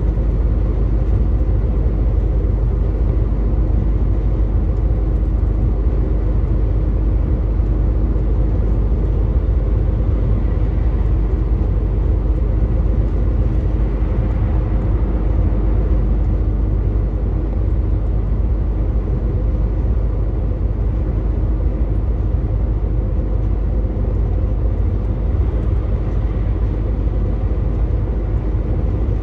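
Truck's diesel engine droning steadily at a constant speed, with a low rumble of road and tyre noise.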